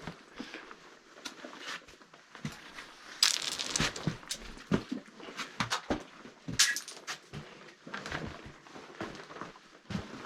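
Footsteps crunching and brush rustling, irregular and uneven, with louder bursts of rustling about three seconds in and again near seven seconds.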